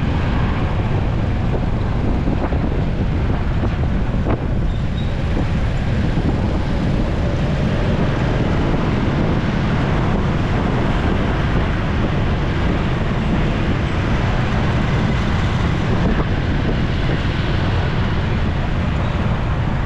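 Steady wind rush on the microphone of a moving motorcycle, over its engine and road noise in traffic.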